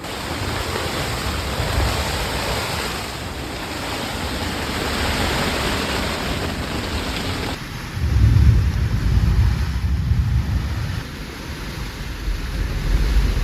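Heavy rain pouring down, then a long low rumble of thunder starting about eight seconds in.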